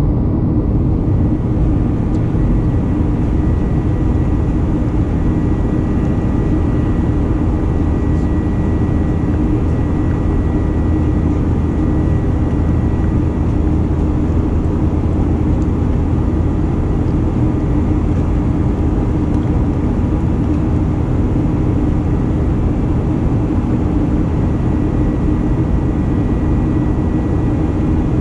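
Steady drone of a Boeing 737-900ER's CFM56-7B turbofans and rushing air, heard from inside the passenger cabin while the jet climbs below 10,000 feet, with a low hum and a few faint steady whining tones.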